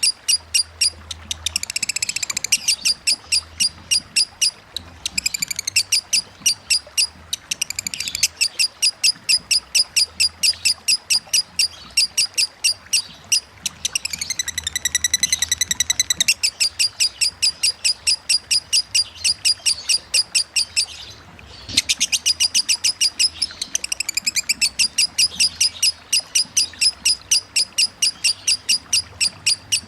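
Lovebird singing a long 'ngekek' run: sharp, high chirps repeated evenly several times a second, with a brief pause about 21 seconds in.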